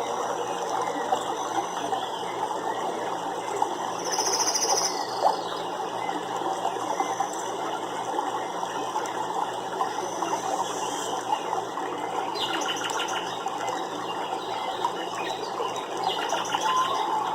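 Steady running water, with a short, rapid, high trill about four seconds in and bursts of fast ticking calls in the last few seconds.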